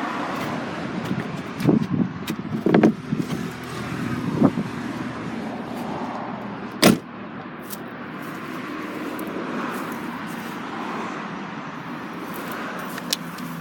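A few knocks and bumps as the removable boot shelf of a Fiat 500L is handled in the boot, then one sharp bang about seven seconds in, over a steady background hiss.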